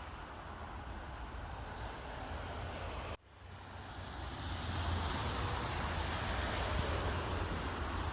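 Steady outdoor background noise with a low rumble. It cuts out abruptly about three seconds in, then comes back louder.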